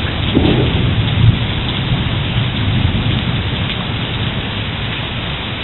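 Heavy thunderstorm rain pouring steadily, with a low rumble of thunder that slowly fades.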